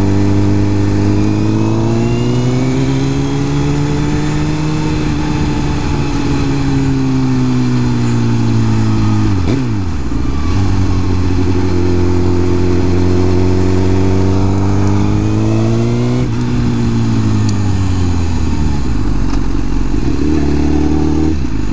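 Suzuki GSX-R 1000 superbike's inline-four engine running under way, its pitch rising and falling with the throttle. A sharp dip and recovery in pitch comes about ten seconds in, and a sudden drop about sixteen seconds in.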